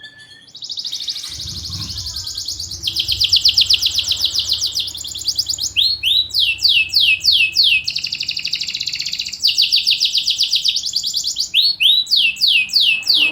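Domestic canary singing loudly: long, dense song built of rapid trills, switching between fast buzzy rolls and slower runs of sweeping notes with hardly a pause between phrases.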